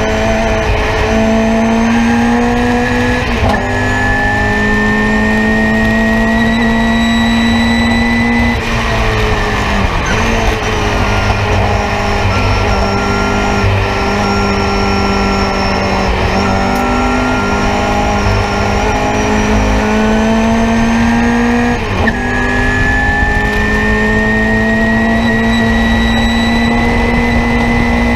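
The Nissan Sentra race car's engine, heard from inside the cockpit, running hard at racing load. Its note climbs steadily, drops away about nine seconds in as the car slows, then climbs again, with a short break in the note a little after twenty seconds.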